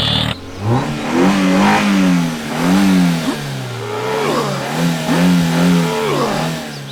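Vehicle engine revving, its pitch swelling up and falling back again and again, about once a second.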